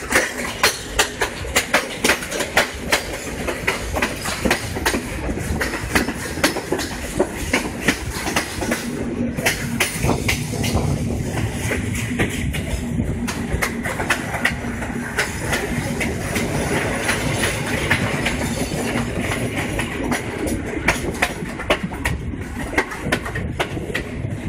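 Passenger train in motion, heard from a carriage window: wheels clattering over the rail joints in rapid, uneven clicks over a steady rumble of running gear. A steady low hum joins in from about eight seconds in for around six seconds.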